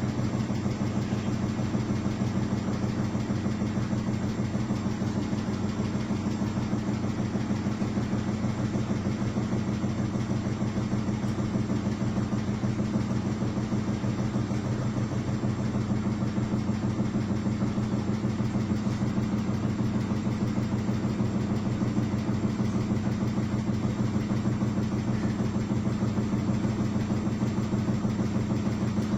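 Washing machine running steadily, a constant low motor hum with rapid fine vibration.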